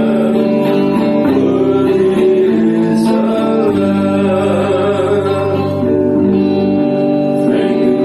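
Worship song: singing over a strummed acoustic guitar.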